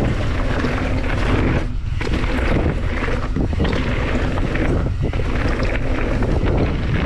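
Wind buffeting the action camera's microphone while a mountain bike rides down a dirt trail, a dense, loud rush with tyre and trail noise underneath.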